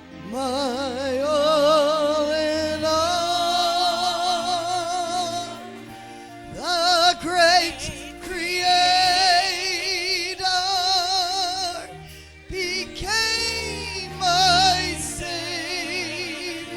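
Worship singing: a voice holding long notes with strong vibrato, each phrase sliding up into its note, over steady sustained accompaniment.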